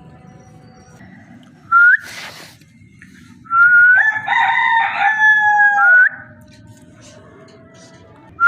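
Ringneck parakeet calling: a short rising whistle and a harsh squawk about two seconds in, then a long loud call from about three and a half seconds in, with held whistled tones sagging slightly and ending on another rising whistle.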